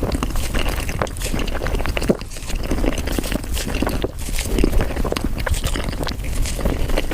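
Close-miked mouth sounds of someone eating cheesecake, sped up about five times: a dense, unbroken chatter of tiny sticky clicks and smacks.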